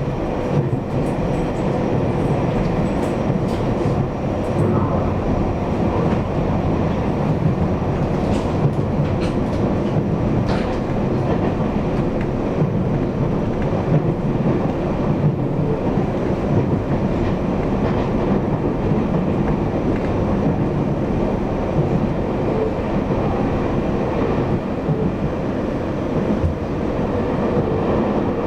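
Taiwan Railways EMU800 electric multiple unit running at steady speed, heard from inside the carriage: a continuous rumble of wheels on the rails with a faint steady hum.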